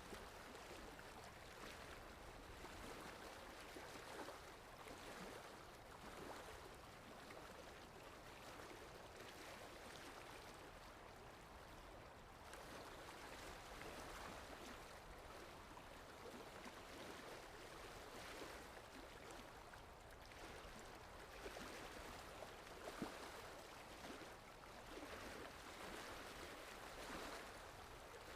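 Sea waves washing softly and continuously, the wash rising and falling in gentle swells every few seconds.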